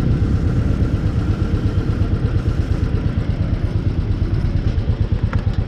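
Royal Enfield Bullet 350's single-cylinder engine idling, an even pulsing beat of about seven or eight firings a second.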